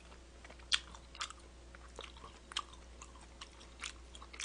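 Mouth sounds of a man chewing a piece of raw fish sashimi: faint, irregular wet smacks and clicks, roughly one every half second.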